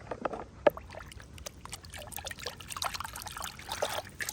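Water trickling and splashing over a plastic toy fire truck as it is washed, with small scattered clicks and knocks; one sharp click comes under a second in.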